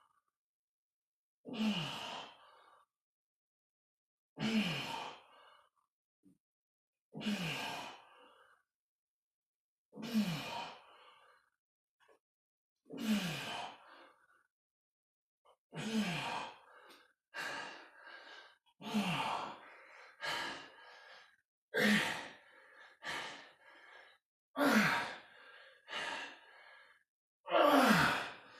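A man's forceful voiced exhales with effort, one on each rep while lifting dumbbells, each dropping in pitch, about every three seconds. From about halfway the pace quickens, with shorter, quicker breaths between the strong ones.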